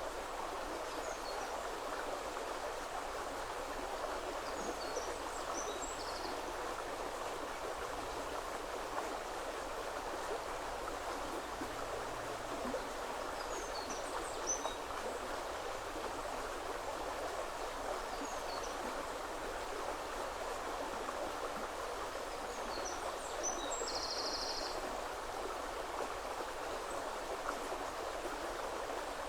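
River water rushing steadily. Small birds make scattered short high chirps throughout, and twice there is a brief high buzzy trill.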